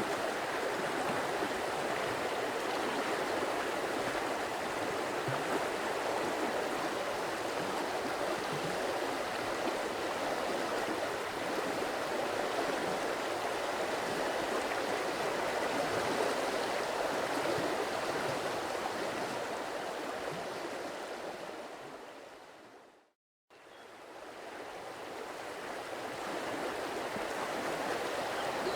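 Stream water running steadily, then fading out to a moment of silence about three-quarters of the way through and fading back in.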